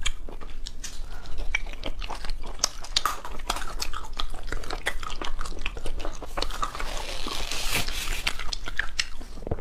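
Close-miked eating: repeated biting and chewing with many sharp, crunchy clicks and wet mouth sounds.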